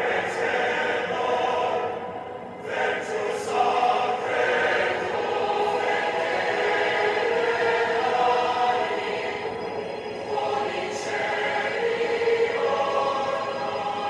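A choir singing slow, sustained choral music, with voices holding long notes that change in steps.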